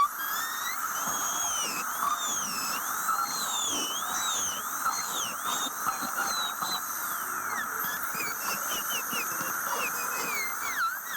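Dental drill whining, its pitch dipping and rising again and again, over a steady hiss.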